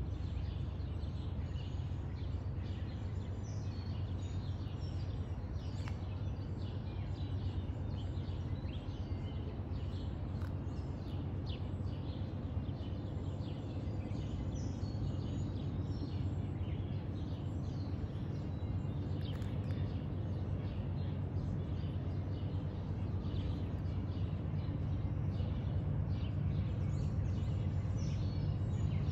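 Birds chirping over a steady low rumble that grows slightly louder near the end.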